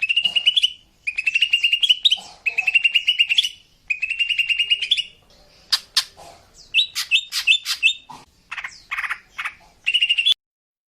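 Female cucak ijo (green leafbird) singing: a run of four short, rapid trills that rise at their ends, then a string of sharp separate notes and falling whistles, and one last trill that cuts off abruptly near the end.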